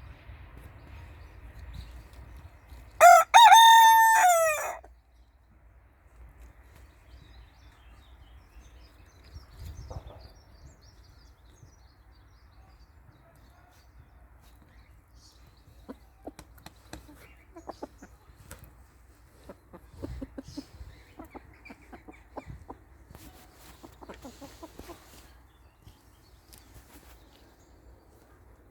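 Barnevelder rooster crowing once, a single loud call of under two seconds about three seconds in. Softer short clucks and scattered small sounds come in the second half.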